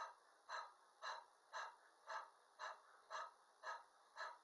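A person doing the yoga 'dog breath' exercise: quick, even panting breaths, about two a second.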